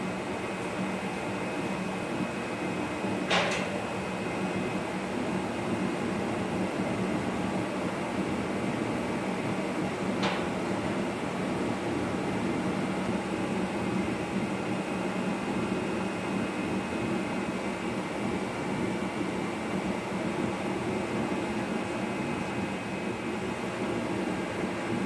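Steady low mechanical hum of a running machine, with a sharp metallic click about three seconds in and a fainter one about ten seconds in.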